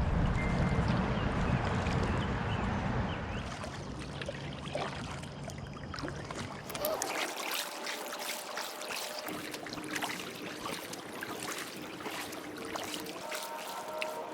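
Water trickling and splashing around a kayak on the water, with a low vehicle rumble fading out over the first few seconds.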